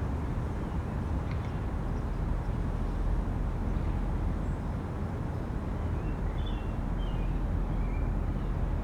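Steady low wind rumble on the microphones, blending with distant city traffic, and a few faint high chirps about six to eight seconds in.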